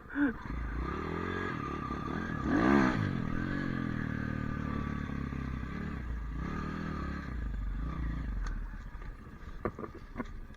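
Pit bike engine revving up and down as it is ridden, loudest about three seconds in, then dying away after about eight seconds.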